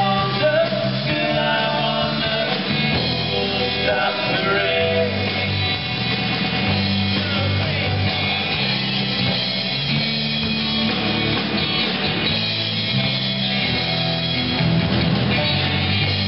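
Rock band playing live, with a steady bass line under the melody throughout.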